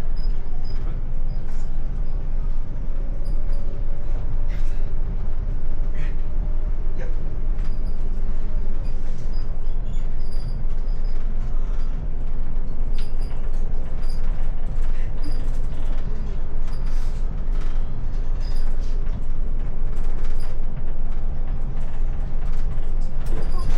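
Steady low road rumble heard inside a moving car's cabin, with many small creaks and clicks scattered through it.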